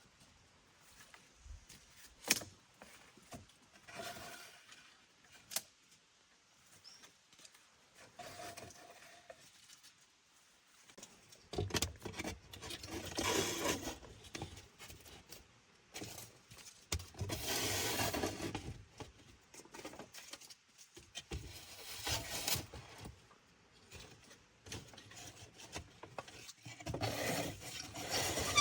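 Hand work on wood: a few sharp knocks, then several spells of rubbing and rasping, each lasting one to three seconds, like wood being sawn or scraped by hand.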